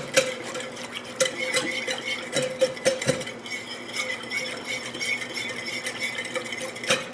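Whisk stirring water in a punch bowl, clicking irregularly and often against the bowl's sides, to dissolve powdered lemonade mix.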